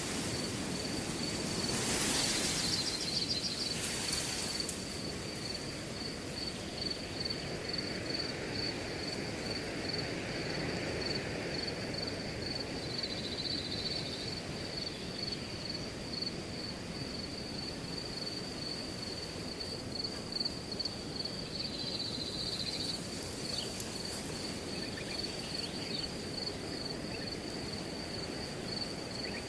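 Wind blowing through a grass field, with a cricket chirping steadily in an evenly pulsed, high-pitched trill. A stronger gust of rustling comes about two seconds in.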